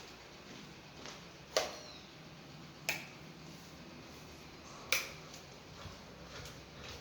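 Ventisol Wind commercial ceiling fan running with a steady low hum, broken by three sharp clicks about a second or two apart.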